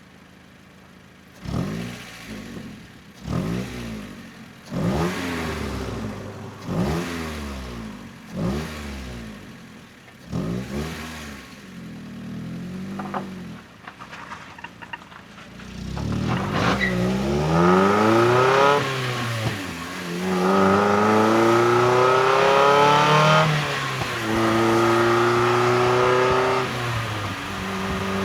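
NB Mazda MX-5 Miata's four-cylinder engine and exhaust: first a string of about seven short throttle blips, each rising and falling in pitch. Then the car pulls away, its revs climbing steadily in gear and dropping at each of several upshifts, becoming louder.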